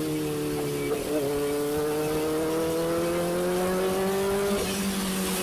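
Kawasaki ZX-4RR's inline-four engine through an SC Project aftermarket exhaust, pulling in traffic with its pitch slowly rising. The pitch dips briefly about a second in, and drops again near the end, with a haze of wind noise underneath.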